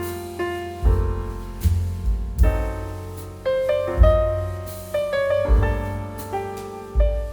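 Slow, gentle solo piano music: chords and melody notes struck and left to ring, with a deep bass note about every second and a half.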